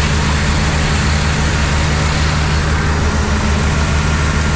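Diesel engine of a semi-truck running steadily with a constant low drone.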